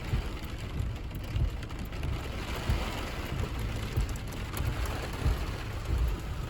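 Rain on a moving car and tyres hissing on a wet street, heard from inside the car's cabin, over an uneven low road rumble with small bumps.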